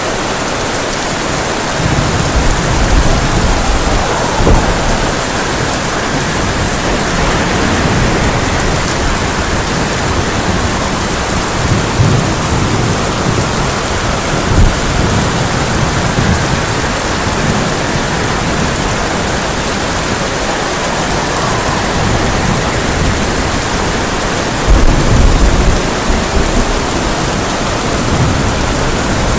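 Heavy rain beating steadily on a tin roof, with low rumbles of thunder rolling through it and the loudest roll of thunder near the end.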